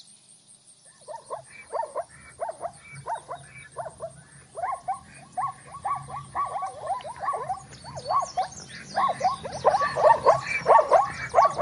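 Zebra calling: a fast series of short barking yelps that starts about a second in and grows louder toward the end.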